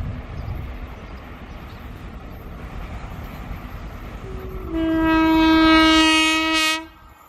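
WAP-4 electric locomotive's air horn sounding one long blast of about two seconds, starting with a brief higher note and cutting off sharply, after a few seconds of low rumble from the approaching train.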